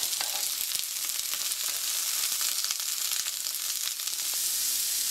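Asparagus spears sizzling in hot oil in a skillet over medium-high heat, a steady loud sizzle. Light clicks come here and there as metal tongs turn the spears.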